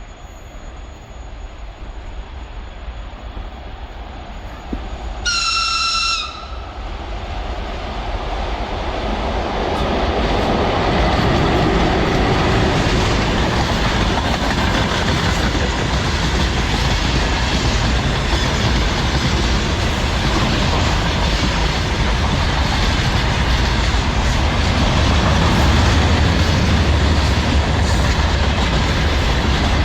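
A VL11 electric locomotive sounds one short, high horn signal about five seconds in, then its freight train passes, the rumble and clickety-clack of the wagons growing louder and staying loud.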